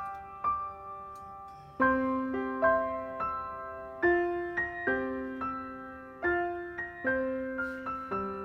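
Background piano music: single notes and chords struck every half second to second, each fading away slowly.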